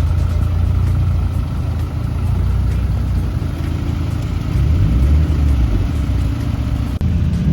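Car engine running at low revs, a steady deep rumble that swells briefly about five seconds in.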